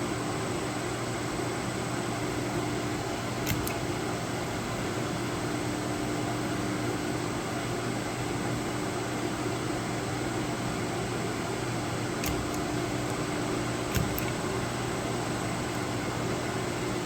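CNC milling machine running a tapping cycle with a steady hum and a few brief clicks; the thread pitch was entered wrongly (an inch value in the metric field), so the tapping motion is going wrong.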